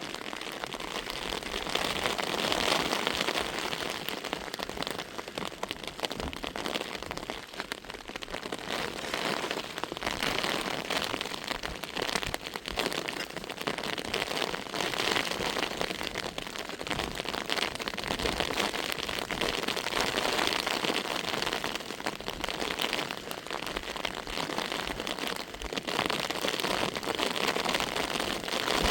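Heavy rain falling steadily, a dense patter of drops on the ground that swells and eases a little.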